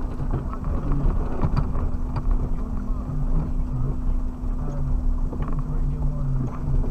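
Suzuki Jimny engine running, heard from inside the cabin while driving over rough ground, with a steady hum and scattered knocks and rattles.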